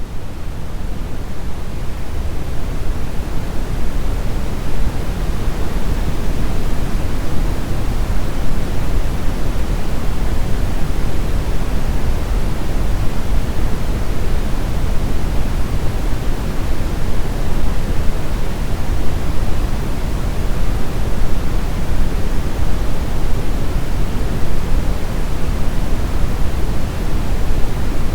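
Brown noise: a steady, even rumbling hiss weighted to the bass, with no tones or events. It fades up over the first two seconds and then holds level.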